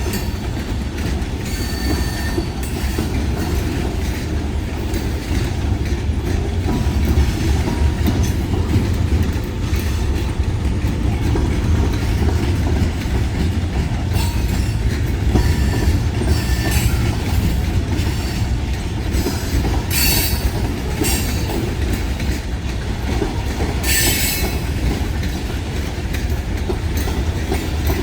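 Kiamichi Railroad freight train rolling past, a steady low rumble of wheels on rail with some clickety-clack. Brief high wheel squeals cut through several times, the loudest about two-thirds and six-sevenths of the way through.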